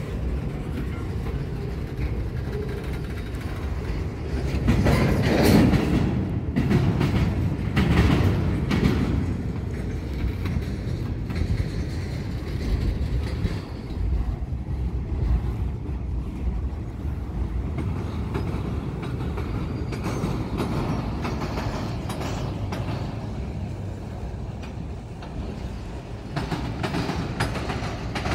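Freight train of empty bulkhead flatcars rolling over a double diamond rail crossing. There is a steady rumble with wheel clatter, loudest in two swells about five and eight seconds in.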